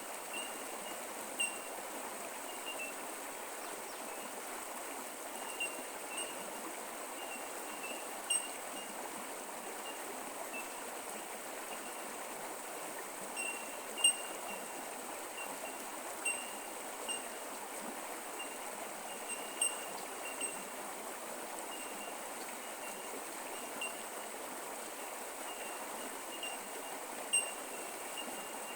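Small bush creek running steadily, with short high-pitched blips scattered through it every second or so.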